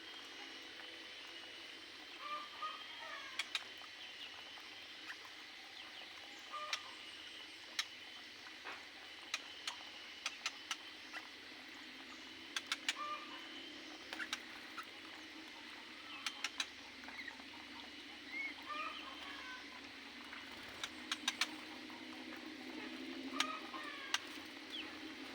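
Aviary birds giving short chirping calls every second or two, with frequent sharp clicks, often several in quick succession.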